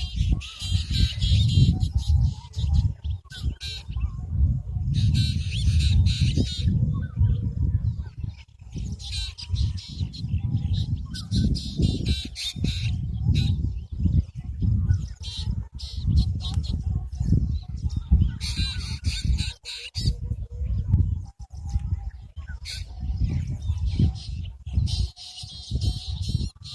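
Birds calling in bursts of high chatter every few seconds, over a heavy low rumble that rises and falls.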